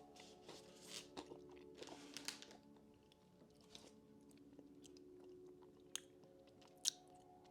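Quiet chewing and crunching of a crunchy snack, close to the microphone, with scattered short crackles and a couple of sharp clicks near the end.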